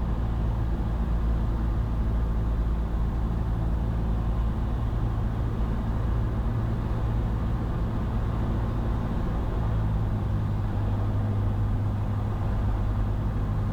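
Cessna 172's piston engine and propeller droning steadily in the cabin at reduced power during the descent on approach, with a slight change in engine note about ten seconds in.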